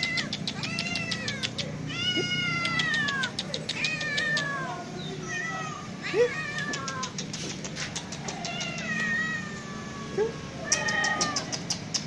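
Cats meowing over and over, each call a drawn-out meow falling in pitch, about one a second, at times two calls at once.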